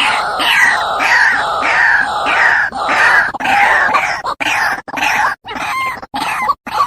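White-breasted waterhen (ruak-ruak) calling loudly: rapidly repeated harsh croaking notes, about two a second, breaking into shorter, choppier notes near the end.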